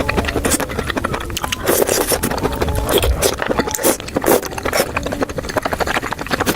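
Close-miked eating: wet chewing and mouth smacks, a dense run of quick clicks with a few louder smacks.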